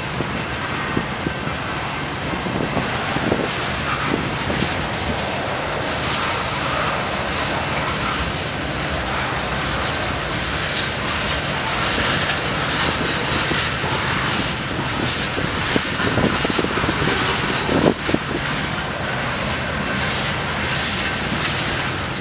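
Freight train's covered hoppers and tank cars rolling past: a steady rumble of steel wheels on the rails with scattered sharp clacks.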